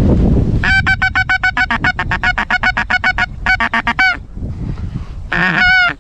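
Goose honking: a rapid run of short, clipped honks, about ten a second, for nearly three seconds, then a shorter run and one drawn-out honk near the end. Wind rumbles on the microphone underneath.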